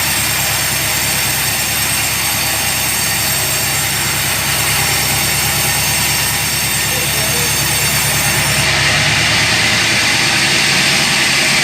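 Sawmill machinery running steadily, a low engine hum under a continuous hiss. About nine seconds in, the sound changes: the highest hiss falls away and a harsher mid-range sound grows.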